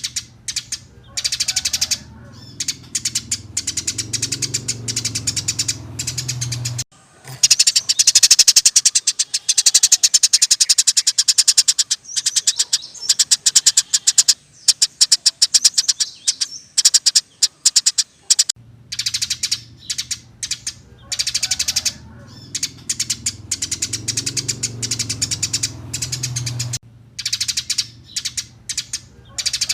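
Caged songbird recording of a kapas tembak and small songbirds calling in rapid, rough, high-pitched chattering trills. The middle third is one long unbroken burst of very fast repeated notes, the 'tembakan' rapid-fire phrase. A low hum runs under the birds at the start and again toward the end.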